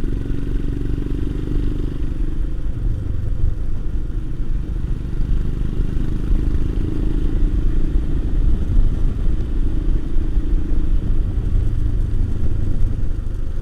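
Royal Enfield Himalayan's single-cylinder engine running as the motorcycle is ridden along, with a steady low rumble and an engine note that rises and dips a little.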